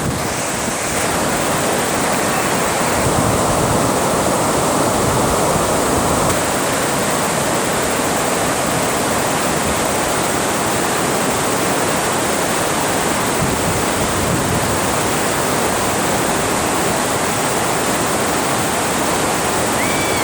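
Water falling and rushing at a dam, a loud, steady rush of water that does not let up.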